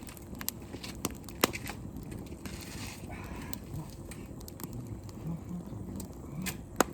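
Wood fire crackling, with scattered sharp pops; the loudest pop comes about a second and a half in and another near the end.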